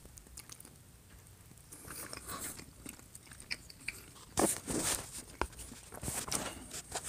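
A person chewing a mouthful of rice and meat close to the microphone. Irregular short mouth clicks and smacks, sparse at first and louder and more frequent in the second half.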